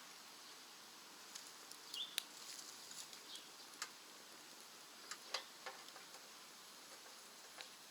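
Wood fire burning in a rocket stove, crackling faintly with scattered sharp pops and ticks at irregular intervals.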